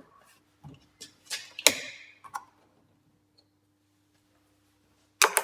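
A few sharp clicks and knocks of something being handled, the loudest about one and a half seconds in, then a quiet stretch and a louder double knock near the end.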